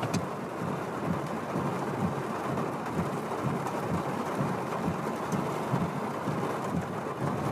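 Heavy rain pouring down steadily, a dense hiss of many small irregular patters.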